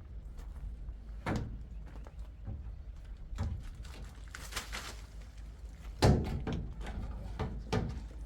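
A series of scattered knocks and thuds with a brief scraping rustle between them, the loudest thud about six seconds in, over a steady low hum.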